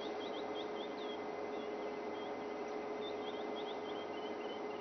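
Bush ambience of steady hiss and a constant hum, with two runs of quick, high, short chirps from a small bird, one near the start and one about three seconds in.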